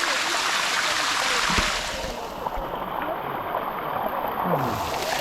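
Waterfall water rushing and splashing over rock: a steady hiss. About two seconds in it turns muffled for a couple of seconds, then opens up again.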